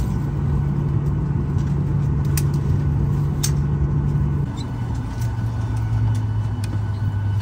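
Boeing 737-900ER cabin heard from inside while taxiing after landing: a steady low engine hum and rumble that drops to a lower pitch about halfway through. A few sharp clicks are heard over it.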